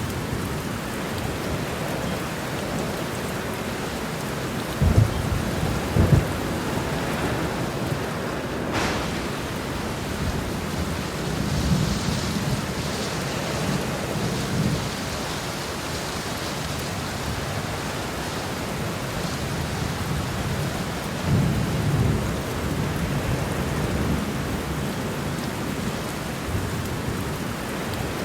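Heavy rain pouring steadily, with rumbles of thunder rolling in several times: a pair of sharp low cracks about five and six seconds in, then longer low rolls around twelve seconds and again past twenty seconds.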